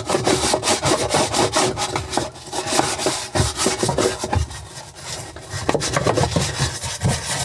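Scrubbing and scraping on a washing machine's hard plastic, in quick irregular strokes.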